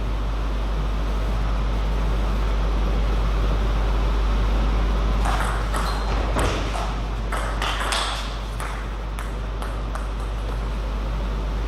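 Table tennis ball being struck back and forth in a rally: a quick run of sharp ball clicks on bats and table, starting about five seconds in and ending near ten seconds, over a steady low hum.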